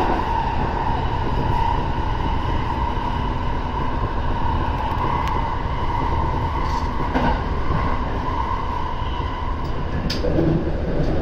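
Electric commuter train running on open track, heard from the front of the car: a steady rumble of wheels with a steady high whine over it, and a few brief clicks as the wheels cross rail joints and a set of points.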